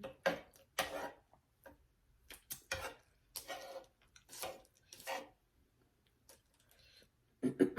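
Close-miked eating sounds: chewing and wet mouth noises in short, irregular bursts with brief silences between them.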